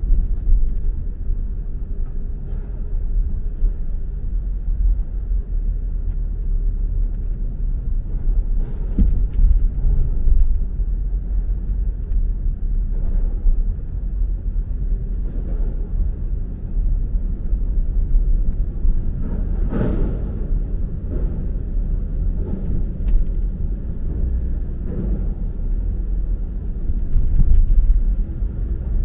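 Car on the move: a steady low rumble of engine and road noise, with a few brief louder noises, the clearest about twenty seconds in.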